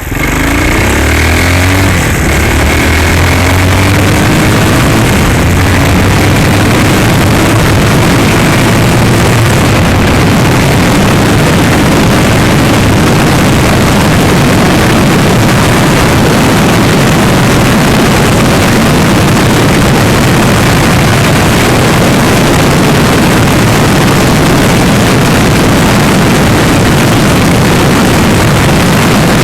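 Hawk 250cc dirt bike's single-cylinder four-stroke engine under way, its pitch rising over the first several seconds, then buried under heavy wind buffeting on the microphone as the bike rides.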